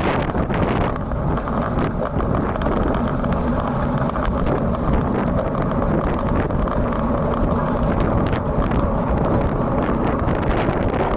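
Steady wind rumble on an action camera's built-in microphone while riding a road bike in strong typhoon wind and rain.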